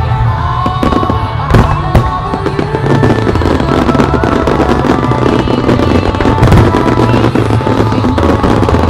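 Fireworks barrage: a few sharp bangs in the first two seconds, then a dense, continuous crackling of many small bursts. Music plays loudly throughout the display.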